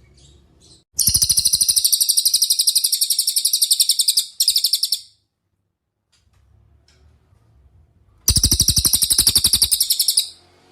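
Cililin songbird singing two long, very fast trills of high repeated notes. The first starts about a second in and lasts around four seconds with a brief break near its end. The second comes near the end and lasts about two seconds.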